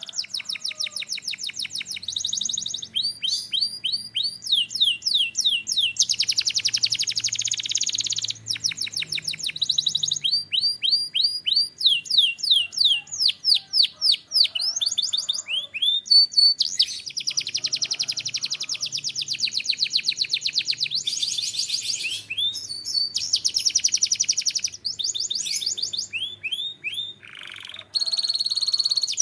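Domestic canary singing a continuous song of fast trills. Each phrase is a quick run of one high note repeated many times, and the bird switches to a new phrase every second or two.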